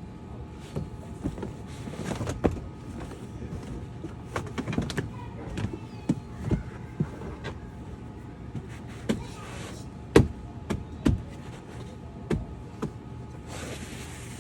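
Irregular knocks, thumps and rustling from floor mats being pulled out and laid into a car's footwell, with a brief scraping hiss near the end.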